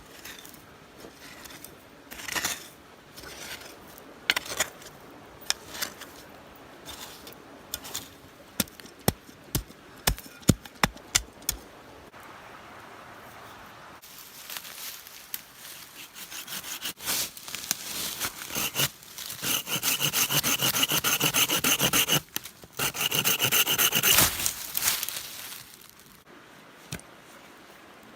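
Hand work on wood: a run of sharp knocks, then a long spell of fast back-and-forth rasping strokes with a whining edge, broken by a short pause near the end.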